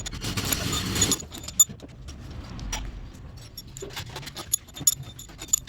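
Metal clinking and tapping: a string of sharp clicks with ringing metallic tones, the loudest about one and a half seconds in, after about a second of hiss at the start.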